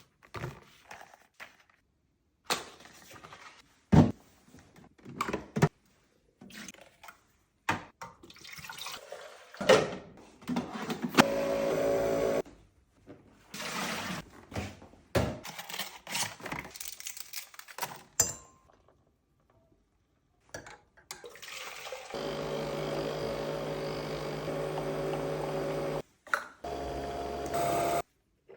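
Coffee machine being cleaned: a string of clicks, knocks and handling sounds from its parts, with water pouring. Several times the machine runs with a steady hum, longest for about four seconds from about 22 s and again near the end.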